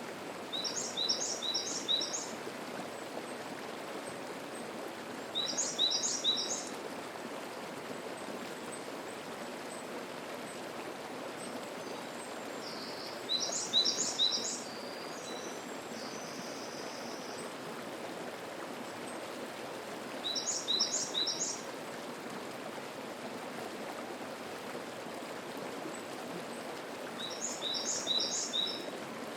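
Mountain stream flowing steadily, with a songbird singing a short phrase of three or four quick high notes five times, about every seven seconds.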